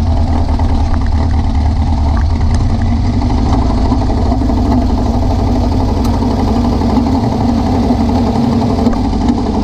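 VW beach buggy's engine running while the buggy is driven, with wind and road noise. The engine still has a misfire that new spark plugs and leads have not cured.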